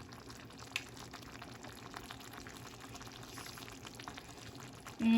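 Pot of glass-noodle soup simmering on the stove, a faint steady bubbling with fine crackles, and a small click just under a second in.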